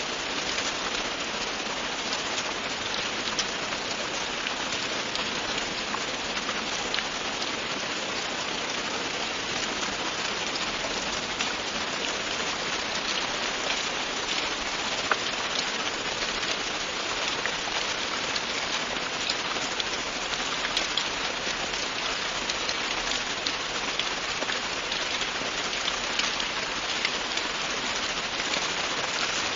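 Steady rain falling on a surface, an even hiss with many small drop ticks and no let-up.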